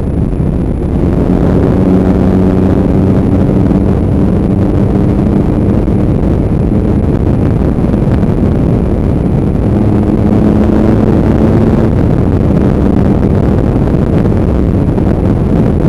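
Motorcycle engine running at a steady cruise while under way, under loud wind buffeting on the microphone. The engine's note stands out more clearly near the start and again past the middle.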